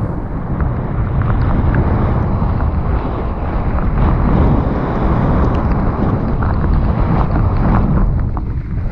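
Wind rushing over the microphone of a mountain bike descending a wet trail, with the tyres on the dirt and frequent clicks and rattles from the bike.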